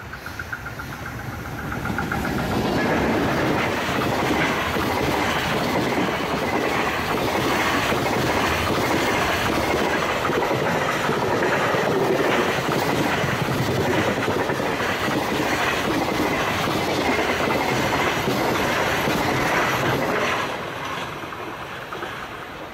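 Container freight train passing close by: the wagons' wheels clickety-clack over the rail joints in a steady rhythm. The noise builds about two seconds in and drops off sharply near the end as the last wagons go by.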